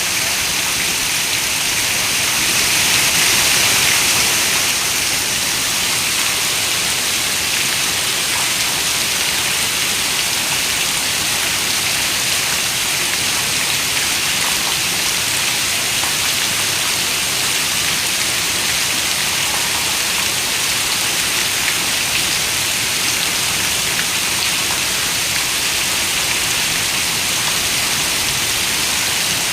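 Steady rain falling against a window: a dense, even hiss of drops with faint scattered ticks, swelling a little about three seconds in.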